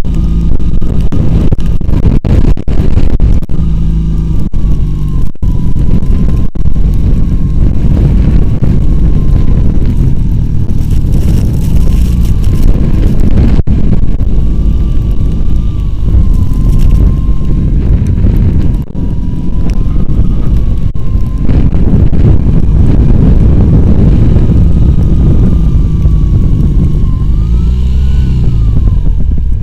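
Homemade quad bike's two-cylinder Oka car engine running hard and steadily as it pushes through deep snow, with a wavering whine above the engine note.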